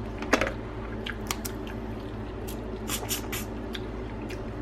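Boiled crab being eaten by hand: shells cracking and snapping as they are broken open, with wet squishing and chewing. The sharp cracks come irregularly, the loudest just after the start, over a steady low hum.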